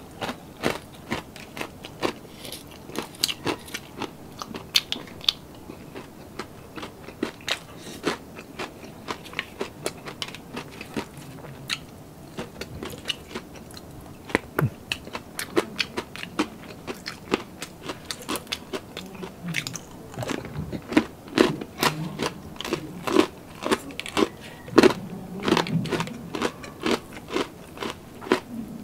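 Crunching and chewing of crispy deep-fried pork belly (lechon kawali), with many sharp, irregular crackles of the crisp skin. The crunching grows louder and heavier about two-thirds of the way in.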